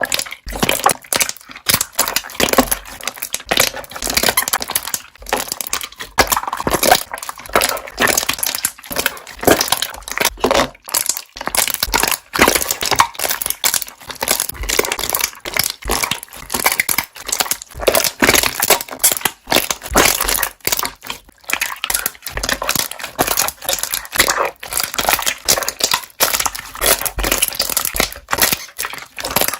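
Slime being squished and pressed by hand, with dense, irregular popping and crackling of trapped air bubbles.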